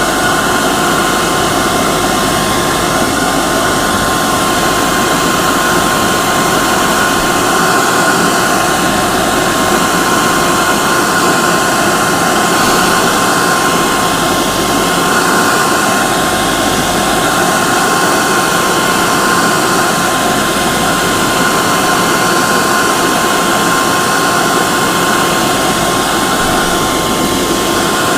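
Hair dryer running steadily: a constant whooshing hiss of blown air with a steady motor whine, used as white noise to soothe a baby.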